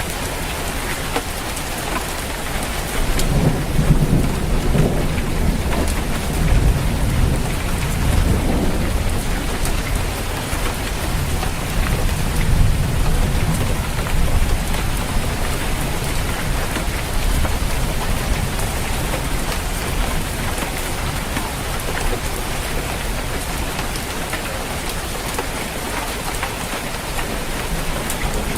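Steady heavy rain drumming on a roof, with a long, deep roll of thunder building a few seconds in and fading out about halfway through.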